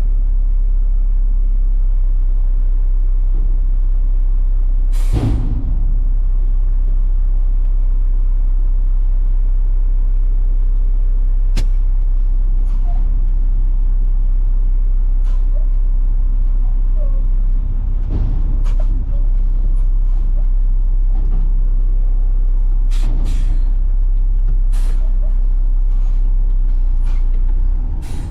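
Front-load garbage truck's diesel engine running with a steady low drone, heard from inside the cab. There is a short hiss of air about five seconds in, and scattered clicks and knocks.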